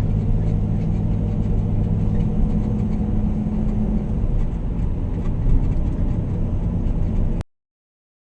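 Steady engine and road noise of a vehicle driving, with a low hum, which cuts off abruptly about seven seconds in.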